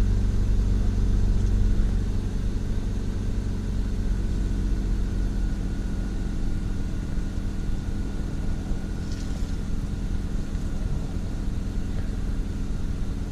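BMW E36 M3 straight-six idling steadily just after a cold start, heard from inside the cabin as a low rumble. The idle eases slightly lower about two seconds in.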